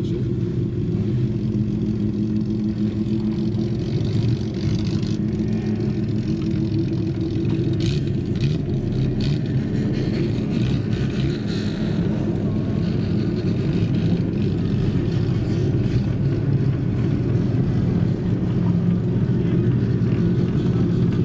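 Car engines running steadily at an unchanging pitch during a night run of modified old Japanese street cars (kaido racers). Faint ticks and taps sit above them.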